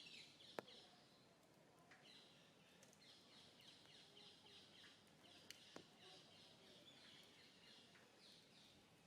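Faint birds chirping, a long run of short repeated falling notes, with two sharp clicks, one about half a second in and one near the middle.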